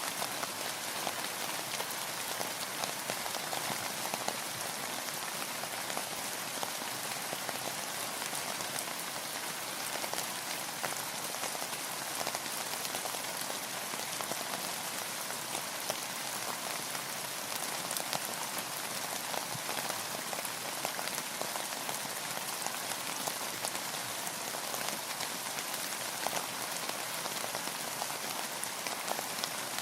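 Steady rain falling and pattering on a surface: a dense, even hiss with many small drop ticks and no change in intensity.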